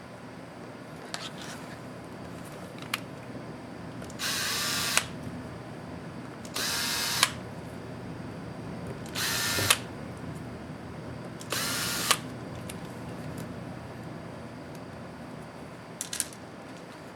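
Small electric screwdriver backing out laptop screws: four short runs of motor whine, each about three-quarters of a second long and ending in a sharp click, spaced a couple of seconds apart. Faint clicks of handling come between runs.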